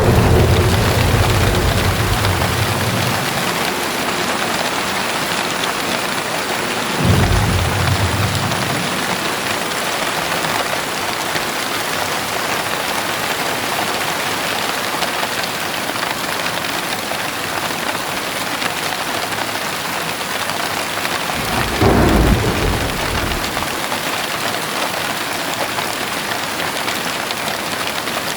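Steady heavy rain falling, with rolling thunder: a rumble fading away over the first few seconds, then two shorter rumbles, one about a quarter of the way in and one about three quarters of the way in.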